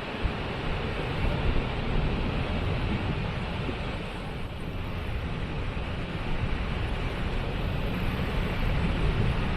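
Waterfall rushing: a steady, unbroken noise with a deep rumble.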